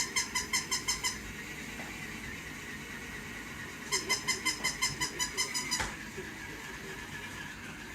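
Battery-powered toy dog's electronic yapping: quick runs of short, evenly spaced yaps, about six a second, once at the start and again about four seconds in, over a steady low hum from the toy.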